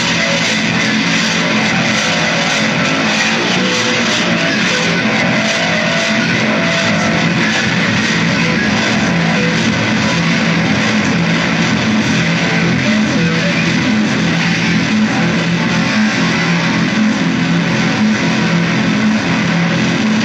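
Electric guitar music, a dense, even wall of sound with steady low notes underneath and no break.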